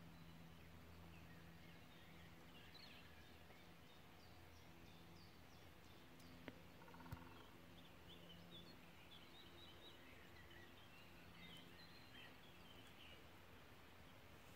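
Near silence, with faint distant birds calling on and off and a low steady hum underneath. Two small clicks come about halfway through.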